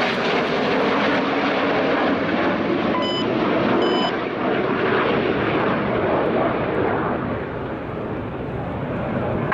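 BAE Hawk T1 jets of the Red Arrows flying past with a steady jet roar from their Rolls-Royce Adour turbofans. Two short electronic beeps sound about a second apart partway through.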